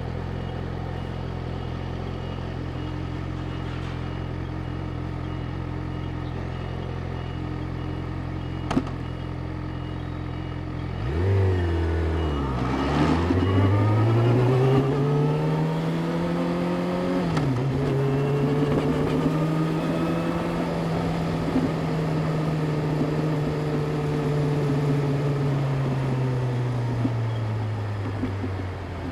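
Yamaha YZF-R6's inline-four engine idling steadily, then revving and pulling away about eleven seconds in, with one gear change some six seconds later, running on at steady revs and easing off near the end.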